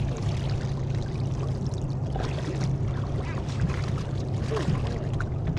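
Shallow water sloshing and trickling around someone wading, with a steady low rumble underneath.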